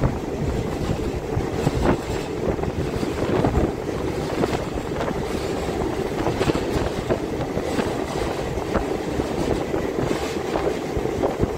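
MEMU electric multiple-unit train running along the track, heard at an open window: a steady running rumble with wind rushing over the microphone and scattered sharp clacks.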